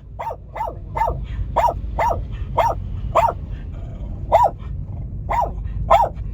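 Dog barking in a run of about ten short, rising-and-falling barks, roughly two a second, each sounding like the word 'rua' (street): the dog asking to go out.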